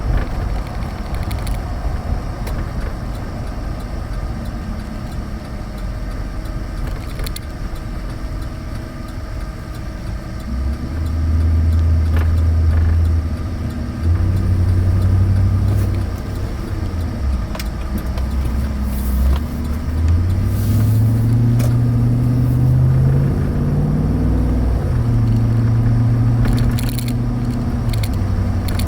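A 2013 Chevrolet Avalanche's V8 engine and road rumble while driving. About ten seconds in the engine pulls harder and gets louder, its pitch stepping up and climbing, then dropping back as the transmission shifts.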